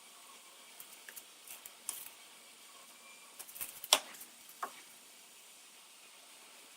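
A few light clicks and taps, with one sharper click about four seconds in, over a faint steady hiss.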